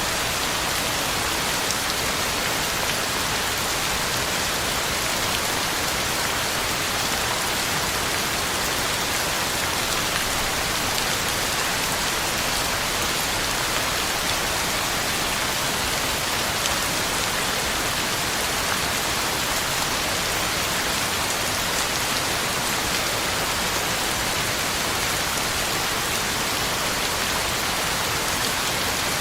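Heavy rain falling steadily, drops hitting the ground and leaves in a constant even hiss.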